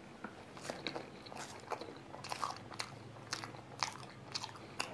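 A person biting into and chewing a crispy puff pastry with a crumbly crust: a string of small crunches at irregular intervals.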